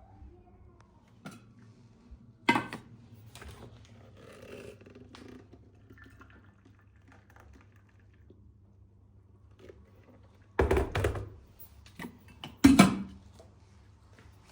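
Household handling sounds: objects knocked and set down, with one sharp knock about two and a half seconds in and two louder bursts of thuds and clatter about ten and twelve seconds in.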